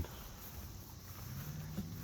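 Quiet outdoor background: faint, high insect chirring over a low, steady hum.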